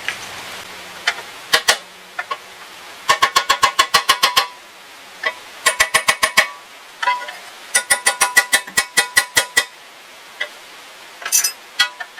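Rapid metal-on-metal hammer taps in bursts of six to ten strikes, about six a second, each strike ringing briefly. There are short pauses between bursts and a few single taps.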